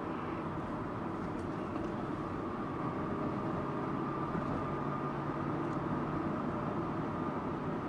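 Subaru Impreza Sports Wagon's flat-four engine and tyre noise while driving at a steady pace: a continuous even rumble and hiss that gets a little louder about three seconds in.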